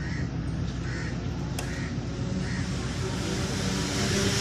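A crow cawing: about four short caws, under a second apart, over a steady low hum.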